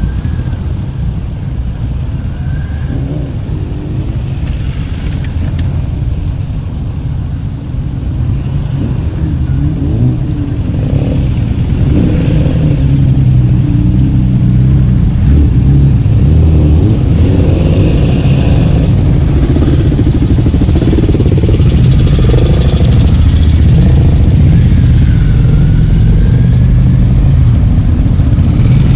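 Motorcycles running on the move, engine sound with faint rising and falling revs, growing louder about twelve seconds in.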